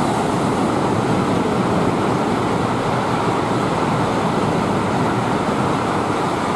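Eurostar Class 374 high-speed train running through the station without stopping: a loud, steady rush of wheel and rail noise.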